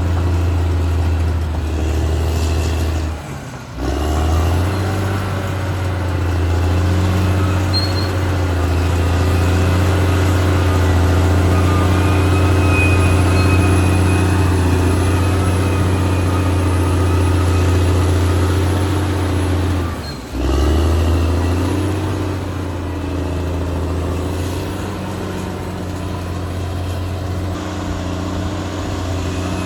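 Caterpillar D6R XL bulldozer's diesel engine running steadily, with two brief dips in level, about three seconds in and about twenty seconds in.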